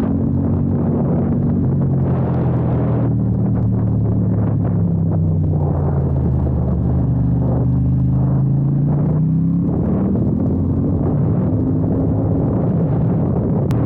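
Ducati XDiavel's 1262 cc Testastretta L-twin engine running under way, with wind and road rush. The engine note sinks slowly over the first half as revs come down, then climbs again.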